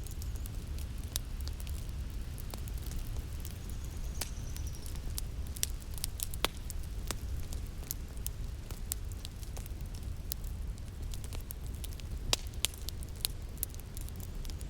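Wood fire in a fireplace crackling, with sharp irregular pops and snaps over a steady low rumble of the burning fire.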